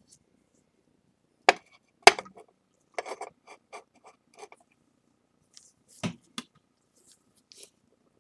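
A ceramic plate being handled and turned over on a hard work surface: two sharp knocks, then a run of small clicks and taps, and two more knocks a few seconds later.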